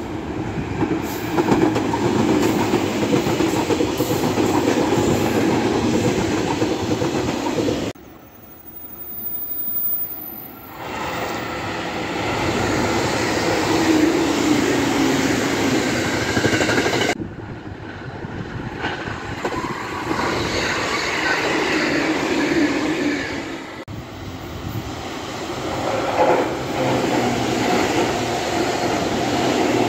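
JR Kyushu commuter electric trains running past, their wheels rumbling on the rails at close range. The sound cuts abruptly from one passing train to another about three times.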